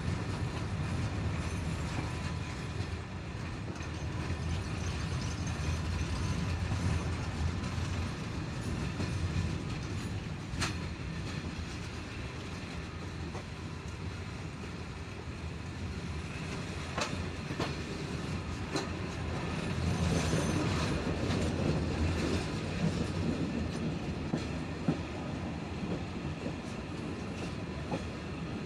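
Passenger train coach rolling along the rails, heard from the coach window: a steady low rumble of wheels on track with a few sharp clicks. It grows louder for a few seconds about two-thirds of the way through.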